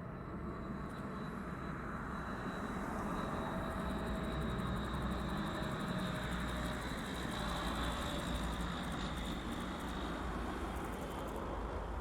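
Rolls-Royce Dart turboprop engines of a YS-11FC running: a high steady whine over a broad roar. The sound swells over the first few seconds and eases a little near the end, while the whine dips slightly in pitch.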